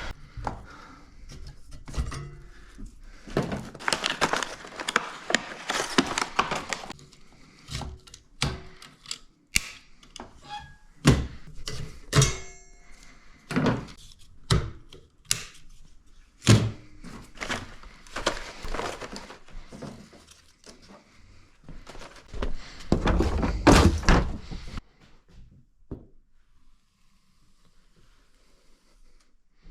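Wiper blades being changed by hand: a run of clicks, knocks and thunks with two longer stretches of rustling, growing quieter near the end.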